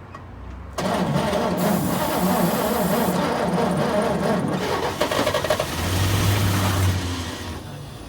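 1941 Chevrolet pickup's straight-six engine cranked by the starter and catching, running for several seconds and then dying away near the end. It runs only briefly, which the owners put down to a gummed-up carburetor not letting in enough fuel.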